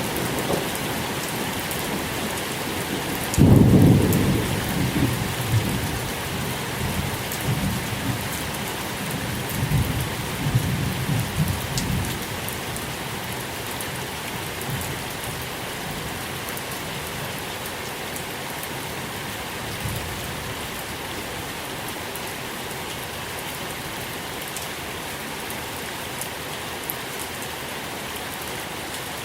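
Steady rain falling, with a roll of thunder that breaks out about three and a half seconds in, rumbles on in waves and dies away by about twelve seconds; after that, rain alone.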